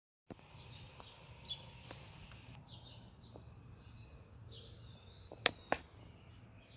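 Scattered bird chirps over a low steady background hum, with two sharp clicks in quick succession near the end.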